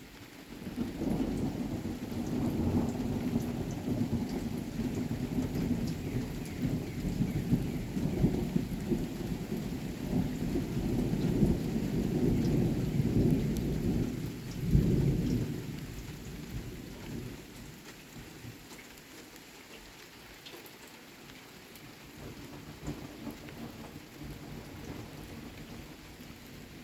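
Thunder rumbling over steady rain: the rumble rolls in about a second in, swells to its loudest crack near the middle, and dies away, leaving the rain hissing on its own.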